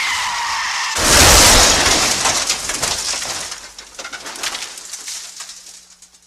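Two sound effects. First a brief bird-like cooing call, then a sudden loud crash of noise with crackling that dies away over about five seconds.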